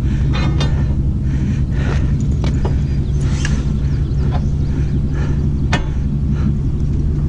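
A vehicle engine idling steadily, with scattered sharp metallic clanks and knocks, the loudest a little before the end, as the tractor is winched up.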